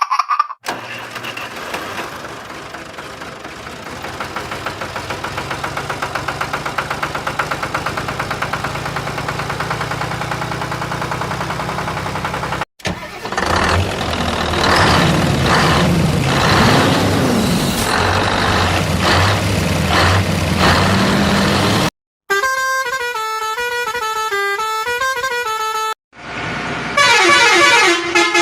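A string of cut-together vehicle sound effects. First an engine runs with a quick, even chug for about twelve seconds, then a noisier stretch of machine sound follows. Near the end come horn blasts that change pitch.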